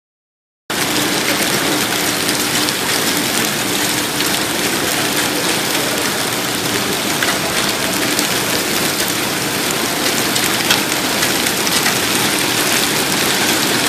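Hailstorm: hail and heavy rain pelting down, a dense steady rush of noise peppered with sharp ticks of hailstones striking hard surfaces. A faint steady hum runs underneath.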